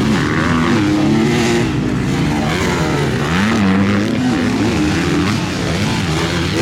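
MX2 motocross bike engines revving up and down repeatedly, the pitch rising and falling with throttle and gear changes.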